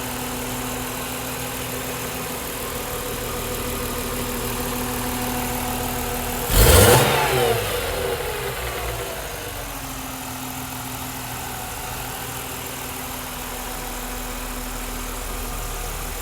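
BMW Z3 M's straight-six idling after a cold start, blipped once about six and a half seconds in: the revs shoot up and fall back over a second or so, then it settles back to a steady idle.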